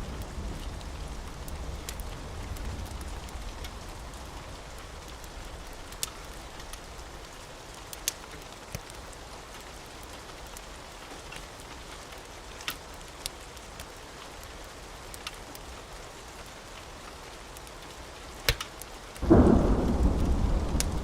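Steady rain with a few sharp, scattered crackles from a wood fire. A low thunder rumble fades out at the start, and a loud roll of thunder breaks in suddenly near the end.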